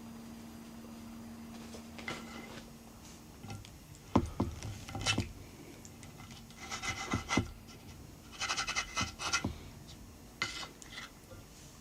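Bursts of rustling and scraping with a few sharp knocks, starting about two seconds in and coming in clusters. A faint steady hum drops out about three and a half seconds in.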